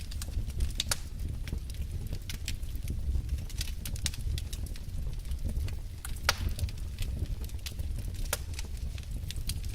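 Wood logs burning in a fireplace, crackling and popping irregularly over a steady low roar of the flames, with a few sharper pops, the loudest about a second in and past the middle.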